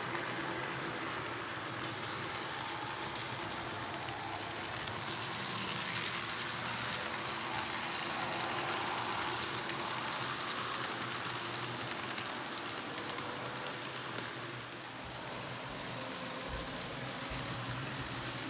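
N scale model train, an Athearn F59 locomotive pulling five passenger coaches, running on the layout track: steady wheel-on-rail rattle with a faint motor hum, louder in the middle as it runs nearer.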